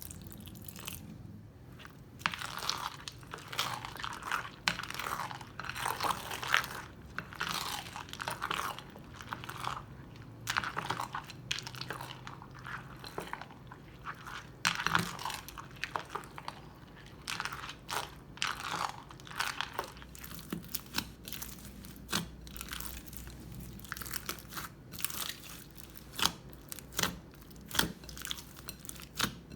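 Crunchy slime mixed with fishbowl beads being squeezed and pressed by hand, crackling and popping in quick, irregular bursts.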